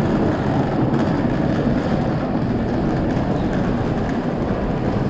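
Low, steady rumble of a moving vehicle.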